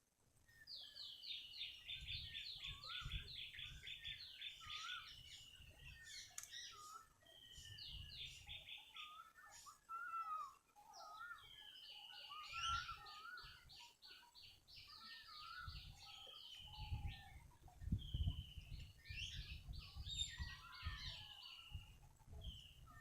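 Songbirds singing: one bird gives repeated fast trilled phrases of high, rapidly repeated notes, each lasting a few seconds, while other birds add scattered lower chirps and whistles. An uneven low rumble runs underneath.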